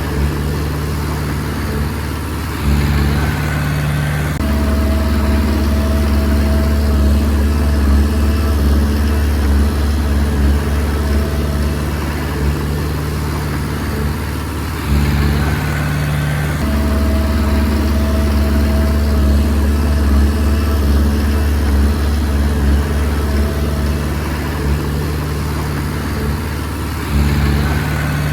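Komatsu D20P bulldozer's diesel engine running steadily while the dozer pushes soil. The engine note shifts in steps about every twelve seconds as the load changes between pushing and backing up.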